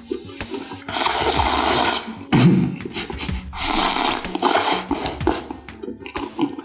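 Close-miked eating sounds: Buldak noodles being slurped and chewed in several long, noisy slurps with short breaks between them.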